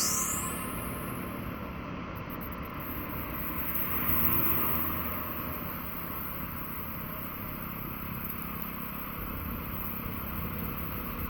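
Steady city street traffic noise, with a brief swell in loudness about four seconds in.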